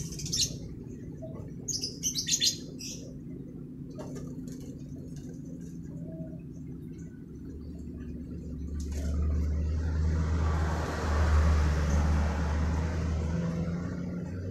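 Lovebird giving sharp, high-pitched chirps in short bursts right at the start and again about two seconds in. Later a low rumble with a hiss swells up, peaks and fades over several seconds.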